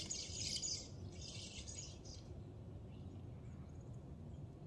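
Small birds calling: two harsh, buzzy calls in the first two seconds, then only faint scattered chirps over a low, steady background rumble.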